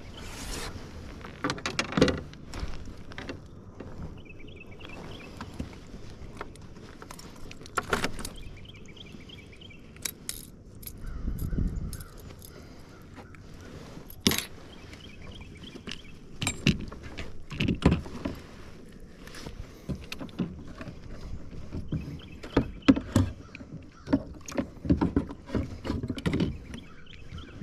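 Irregular clicks, knocks and rattles of fishing gear being handled aboard a kayak.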